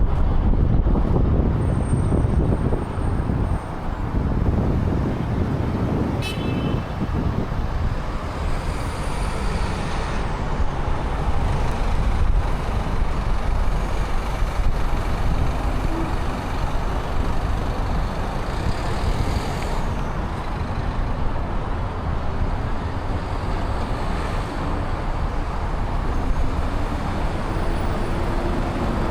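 Downtown road traffic: motor vehicles, including heavy ones such as trucks or buses, passing in a steady low rumble of engines and tyres. A brief sharp click comes about six seconds in.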